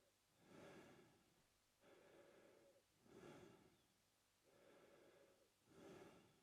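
A man breathing quietly and steadily through his mouth, about two and a half breath cycles. Each cycle is a short, airy, louder breath followed by a longer, softer one.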